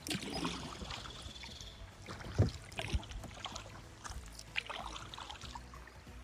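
Kayak paddle strokes splashing and dripping in river water. Two low thumps come about two and a half and three seconds in.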